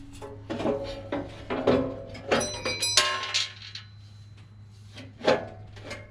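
Sheet-metal shield and steel parts of a baler's pickup head knocking and clanking as the shield is handled into place, with a ringing metallic clang between two and three seconds in and a single knock near the end.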